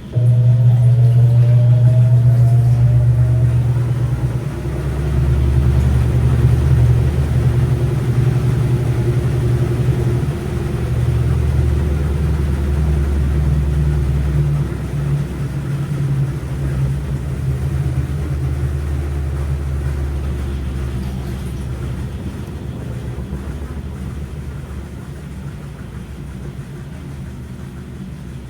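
Washing machine running with a loud, steady low rumble that starts suddenly, a faint rising whine in the first few seconds, and a gradual easing off in loudness over the last several seconds.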